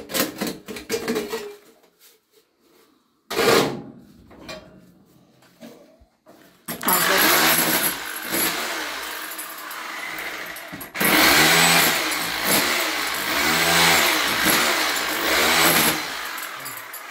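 An electric power tool's motor runs in two long stretches, its pitch sagging and recovering again and again as it works under load. It stops briefly about eleven seconds in, then starts again. A few clicks and a knock come before it.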